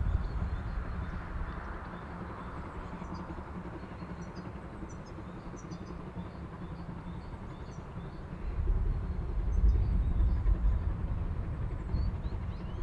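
Gusty wind rumbling on the microphone, getting stronger about two-thirds of the way through, with small birds chirping now and then.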